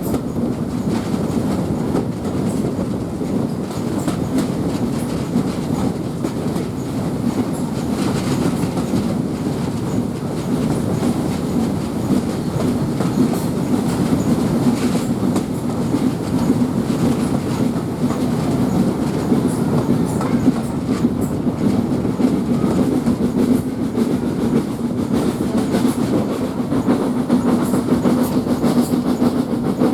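Heritage passenger train running along the line, with the wheels clicking over rail joints over a steady running rumble that grows a little louder in the second half.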